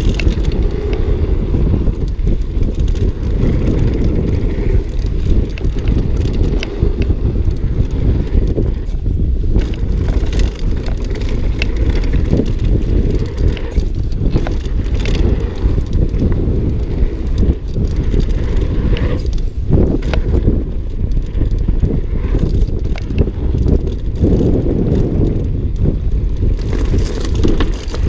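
Mountain bike ridden over rough trail: a constant low rumble of tyres and air with frequent short rattles and knocks as the bike goes over bumps.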